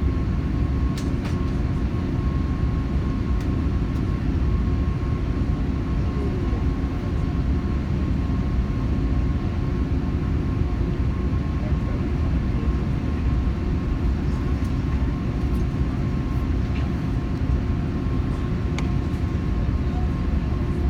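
Steady cabin rumble of a British Airways Airbus A380, its Rolls-Royce Trent 900 engines and airflow heard from a window seat over the wing, with a thin steady hum above the rumble and a few faint clicks.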